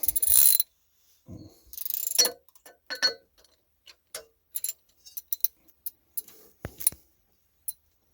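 Irregular metallic clicks and clinks of a hand wrench being set and worked against a seized OMC V8 boat engine, as it is forced in the reverse direction to try to break it free.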